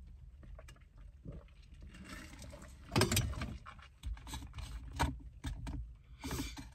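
Irregular crunching and rustling from someone eating crunchy snacks close to the microphone, with the loudest crunch about three seconds in.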